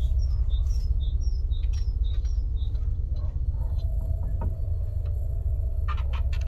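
A small bird singing a repeated two-note phrase, high and low notes alternating about twice a second, over a steady low rumble. The song stops about two and a half seconds in, and a few sharp clicks come near the end.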